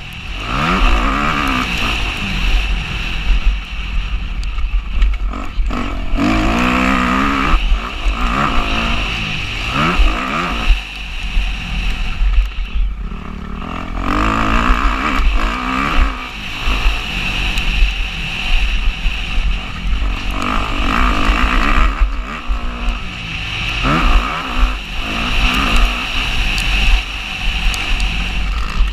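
Motocross bike engine revving hard and dropping off again and again as the rider accelerates and shifts, over a constant low rumble.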